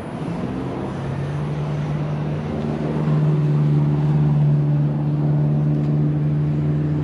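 A vehicle engine running at a steady speed close by, its hum growing louder over the first few seconds and then holding even.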